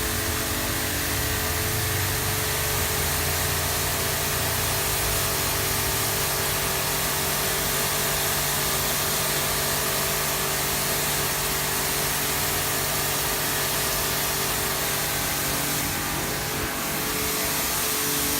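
Pressure washer running steadily, its motor humming under the hiss of the high-pressure water jet spraying onto a rider's waterproof jacket and trousers.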